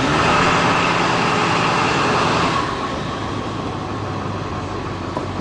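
Ford 7.3L Power Stroke turbodiesel V8 driving, its turbocharger whistling high over the steady engine drone through a 4-inch turbo-back exhaust. About two and a half seconds in, the whistle and the engine drop off and run quieter.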